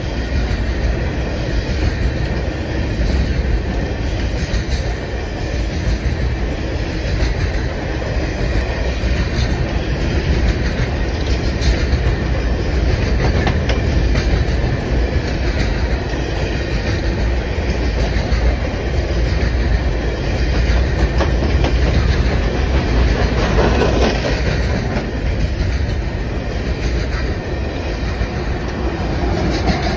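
Steel coal cars of a freight train rolling past with a steady rumble and wheels clacking over the rail joints. Near the end, the rear diesel locomotive draws alongside.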